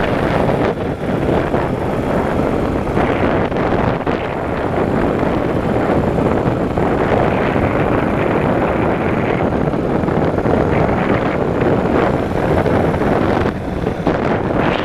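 Wind rushing over the microphone of a Yamaha motorcycle under way, a steady roar with the bike's running noise beneath it, easing briefly near the end.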